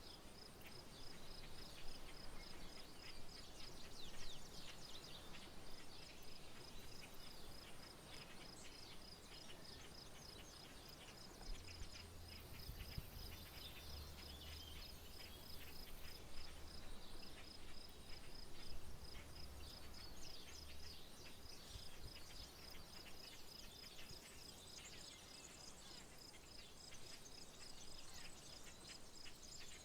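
Outdoor field ambience: an insect trills in a steady, even pulse while birds chirp intermittently. A faint low rumble rises under it in the middle and fades again.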